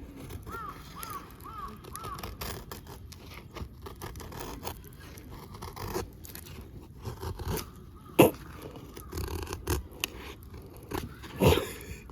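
Scraping and knocking of objects being handled, with a sharp knock about eight seconds in and a louder clatter near the end. Four short chirping notes sound in the first two seconds.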